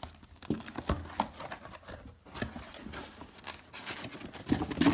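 Cardboard and plastic packaging being handled: irregular rustling, crinkling and light knocks, with a louder clatter near the end.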